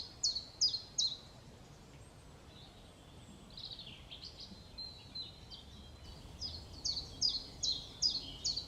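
Common chiffchaff singing: a series of high, clipped notes repeated about three times a second, breaking off after a second, then starting again near the end. Another bird gives a brief warbling phrase in the gap.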